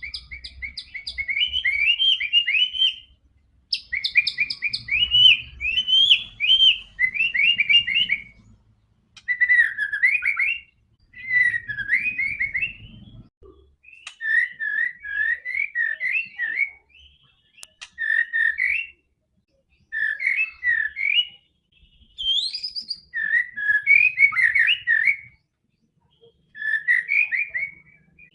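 White-rumped shama (murai batu) singing in a run of short phrases of quick whistled and chattering notes, with brief pauses between phrases.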